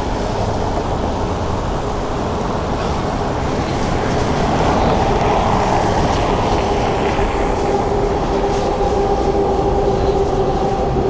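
A SkyTrain rapid-transit train running past, a steady whir with two steady tones, one low and one higher, that come in about four seconds in and grow stronger. Wind noise on the microphone runs underneath.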